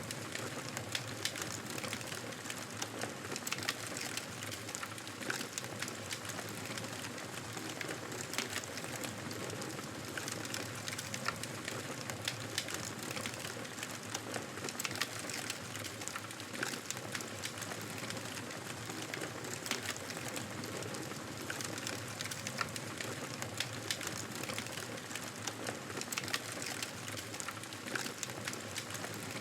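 Wood fire crackling in a fireplace: a steady low hiss of flames with frequent, irregular sharp pops and snaps.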